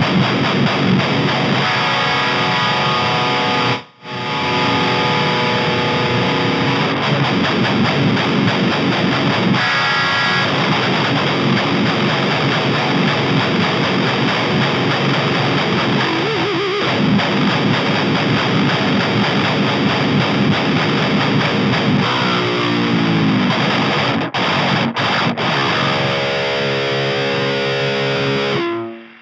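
Ibanez Iron Label seven-string electric guitar played through a high-gain amp-simulator plugin: a heavily distorted metal riff of chugging notes. It stops sharply about 4 s in, breaks briefly near 24 s, and ends after some held notes.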